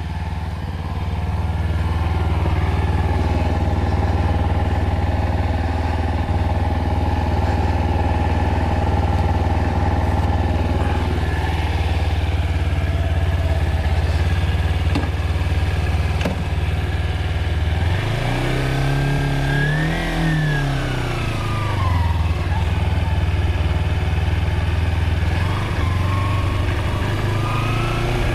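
Motorcycle engine running steadily, then revving up and dropping back about two-thirds of the way through, and rising again near the end.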